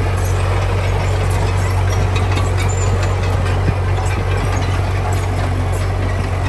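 Diesel engine of heavy earthmoving machinery running steadily with a deep hum, with scattered light clanks and rattles over it.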